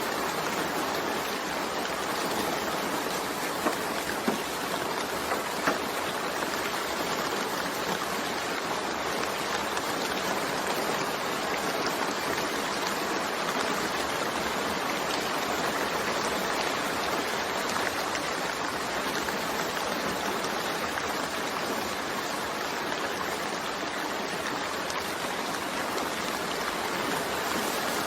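Steady rain falling, an even hiss of many drops, with a few sharper single drop ticks about four to six seconds in.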